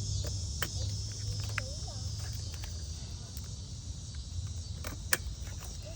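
Crickets chirping steadily in the background over a low hum, with a few sharp clicks of fittings or tools as a fuel pressure gauge is hooked up to the fuel line.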